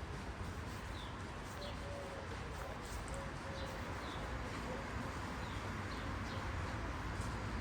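Small birds chirping outdoors, short high chirps every second or so, over a steady murmur of outdoor background noise.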